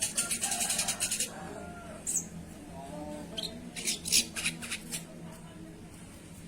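Spiderhunter (sogon) calling: a rapid high-pitched chatter that stops about a second in, a single short high note, then another burst of quick high notes around four seconds. A faint steady low hum runs underneath.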